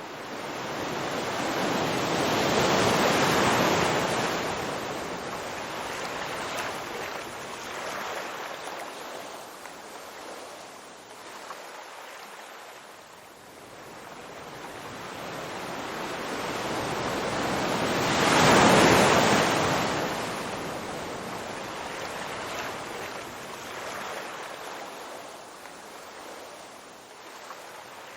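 Ocean waves breaking on a shore, two large waves about fifteen seconds apart, the second louder, each washing in and slowly fading to a low hiss of surf.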